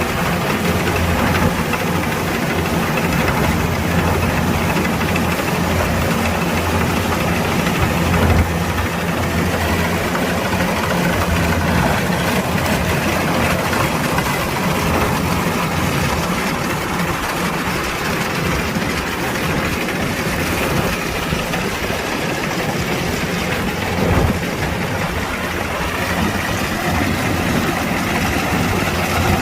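Kubota DC-105X combine harvester's diesel engine and machinery running steadily, with a low hum and a broad mechanical noise, and two brief louder moments, about eight seconds in and again near the end.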